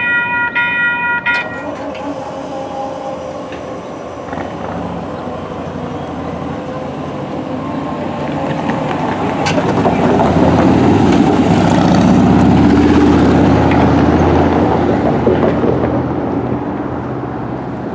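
A railroad crossing warning bell rings in even pulses and stops about a second in. Then a train rumbles past at the crossing, swelling to its loudest about two-thirds of the way through and fading toward the end.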